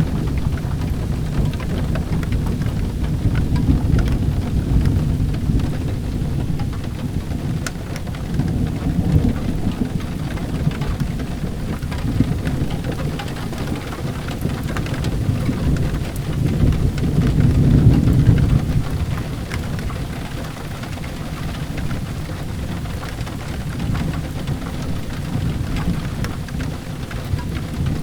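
Steady rain with low thunder rumbling and swelling several times, loudest about two-thirds of the way in. Scattered small crackles run through it, the crackling of a fireplace fire.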